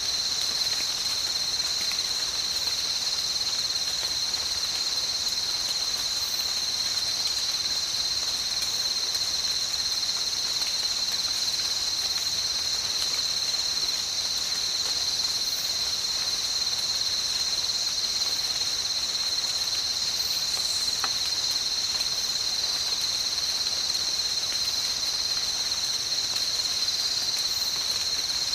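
Tropical night ambience dominated by a continuous, high-pitched insect chorus that holds one steady pitch without a break, over a soft even hiss of rain.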